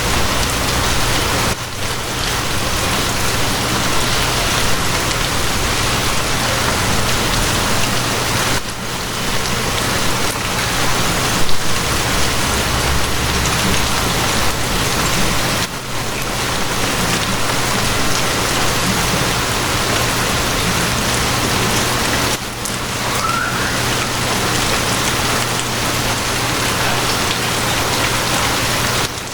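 Steady heavy rain, with a low steady hum beneath it like a train carriage's running rumble. The sound dips briefly about every seven seconds, and there is one short louder hit a little before halfway.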